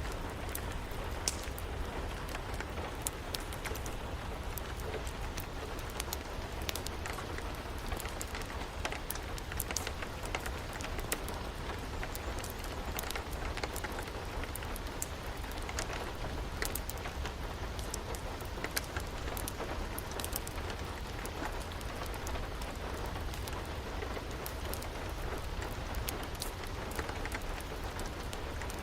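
Steady rain mixed with a crackling wood fire: an even hiss with many scattered sharp pops and clicks.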